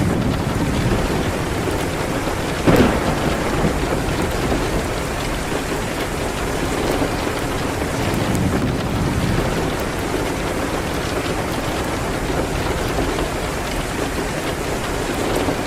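Steady rain against a window mixed with a crackling fireplace, with one sharp crack about three seconds in.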